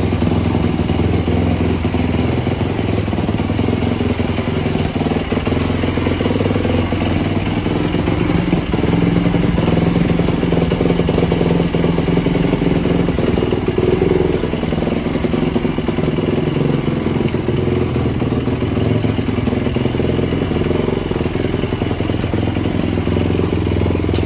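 Small motorcycle engine running, its pitch rising and falling a little with the throttle.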